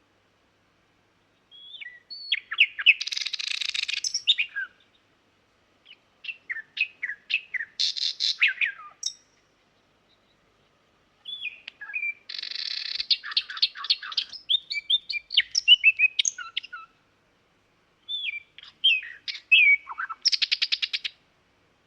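Nightingale singing in four separate phrases of varied whistles, slurred notes and rapid repeated-note trills, with short pauses between phrases.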